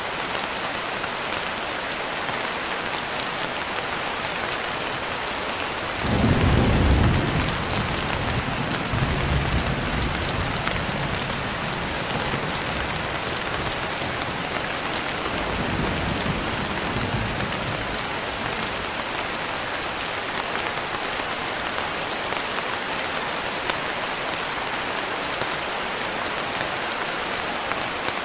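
Steady heavy rain falling, with a roll of thunder rumbling in about six seconds in, trailing off over the next few seconds, and a fainter low rumble later on.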